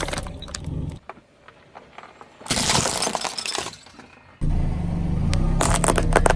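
Brittle objects crunching and shattering under a car's tyres. About three seconds in there is a loud burst of crunching. A steady low engine hum stops about a second in and starts again later, with crackling over it.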